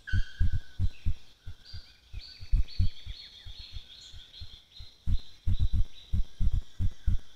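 Forest birds singing: steady high whistles and a descending series of whistled notes about two seconds in. Over them come repeated low, dull thumps, several a second, loudest near the start and end.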